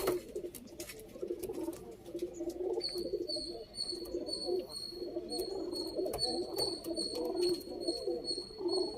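Domestic pigeons cooing, a steady overlapping warble. From about three seconds in, a high thin chirp repeats a few times a second above it.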